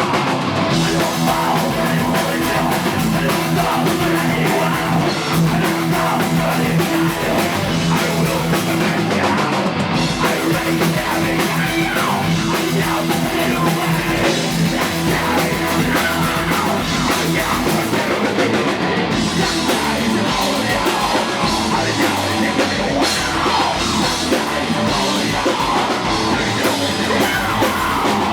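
Heavy metal band playing live: distorted electric guitars over a drum kit, loud and unbroken.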